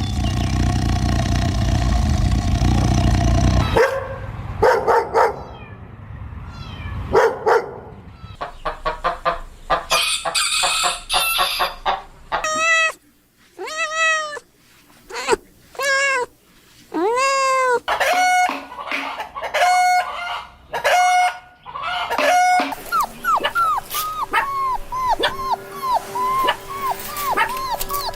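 A string of different animal calls, one after another. A loud, dense call fills the first four seconds; many shorter cries with rising-and-falling pitch follow; and a quick run of small, high, repeated calls comes near the end.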